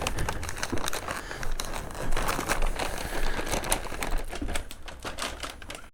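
Close rustling and crinkling with many quick, irregular clicks, like something being handled right against the microphone. It stops abruptly at the end.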